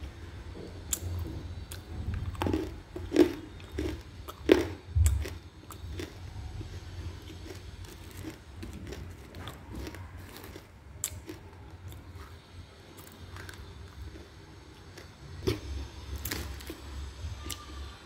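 Baked edible clay chunks being bitten and chewed close to the microphone: several sharp crunches in the first five seconds, then softer chewing, with two more crunches near the end.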